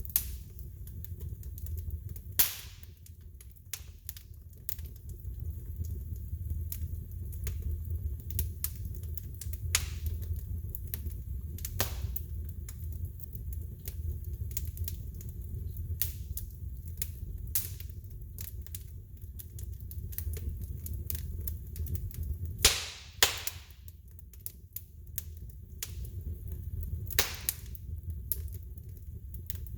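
Wood fire in a fireplace crackling, with irregular sharp pops over a low steady rumble. The loudest pops come a couple of seconds in, twice close together about two-thirds of the way through, and once more near the end.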